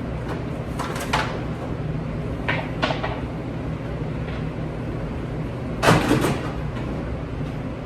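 Several short knocks and clatters of hard objects being handled, the loudest cluster about six seconds in, over a steady low machine hum.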